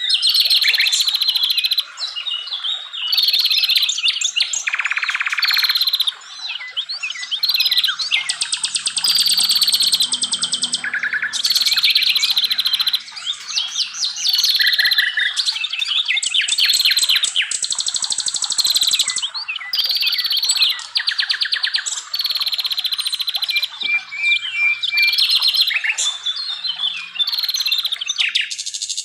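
A dense chorus of forest songbirds, several singing over one another: repeated whistled phrases, fast trills and rapid rattling notes.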